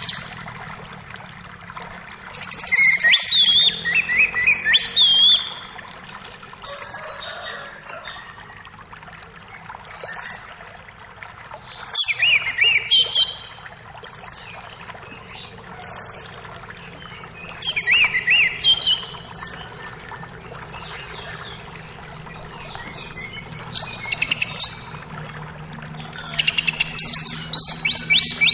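Forest songbirds: one bird repeats a short, high, thin call about every two seconds, while another sings several bursts of quick warbling notes. A faint steady creek flow runs underneath.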